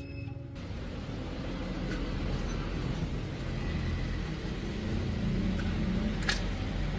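A steady low mechanical rumble with a few faint clicks and one sharper click about six seconds in.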